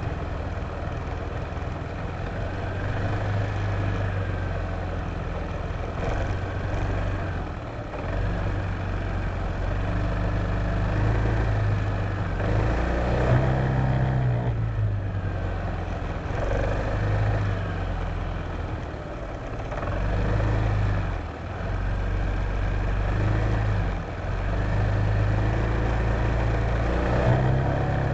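Honda PCX150 scooter's single-cylinder engine running under way, its pitch rising and falling with the throttle, with brief drops when the throttle is eased, about three-quarters of the way through.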